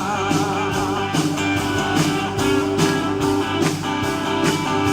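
Live gospel worship band playing an instrumental passage with guitar, bass and drums in a steady beat, after the singer's held last word "altar".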